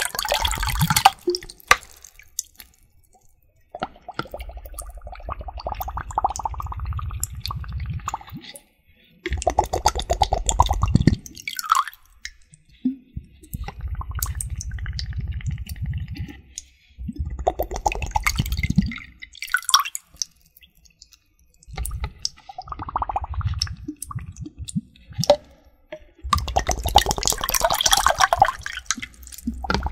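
Water trigger sounds close to the microphone: liquid squishing, sloshing and dripping in bursts of a few seconds, with short pauses between them.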